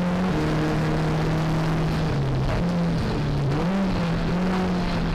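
Four-cylinder engine of a BMW 318ti race car heard from inside the cabin, running hard on track. Its note steps down and rises again several times as the driver changes gear and lifts, with a dip about two seconds in and another rise a little past three and a half seconds.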